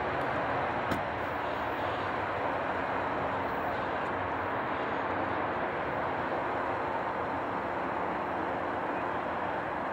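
Doublestack intermodal freight train rolling away down the line: a steady rumble of wheels on rail that holds level throughout, with one small click about a second in.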